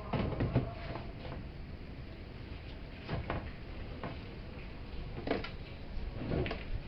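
A few scattered knocks and clattering rattles of hard parts being handled, with a cluster right at the start and single ones about three, five and six and a half seconds in.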